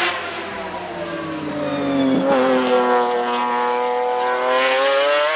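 Nissan 370Z's 3.7-litre V6 engine running under way. Its note falls in pitch at first, breaks briefly about two seconds in, then dips and climbs again as the revs rise.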